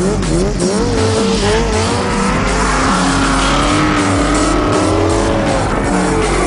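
A drifting vehicle's engine revving up and down in pitch, with tyre squeal, over background music.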